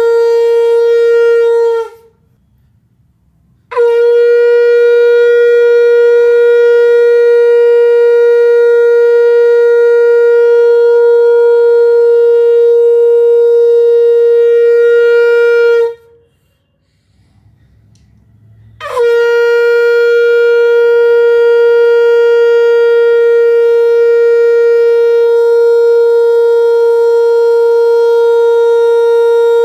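Conch shell (shankh) blown in long, steady blasts, each held on one unwavering note. One blast ends about two seconds in. After a short gap comes a blast of about twelve seconds, then another short gap, and a third blast starts about two-thirds of the way through and is still sounding at the end.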